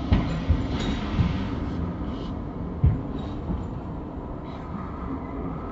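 Passenger train running, heard from its open doorway: a steady rumble of wheels on the track, with a few louder knocks in the first three seconds.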